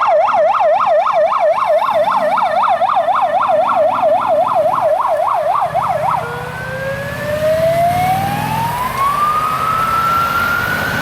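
Fire engine siren in a fast yelp, sweeping up and down about four times a second, that switches about six seconds in to a slow wail, rising steadily in pitch to the end. A vehicle engine runs underneath.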